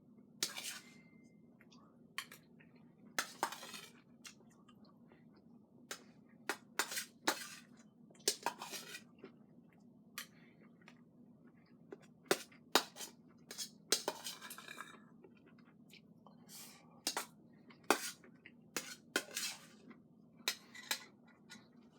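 Cutlery clinking and scraping on a plate during eating: irregular sharp clicks every second or so, with a few longer scrapes.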